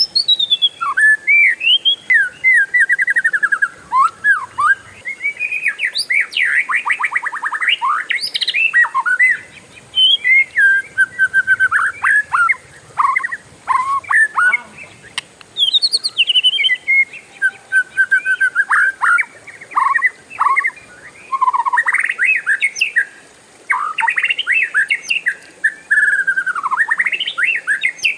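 Oriental magpie-robin (kacer) singing a long, varied song almost without pause: loud whistled phrases sliding up and down, broken up by fast trills, with only brief gaps between phrases.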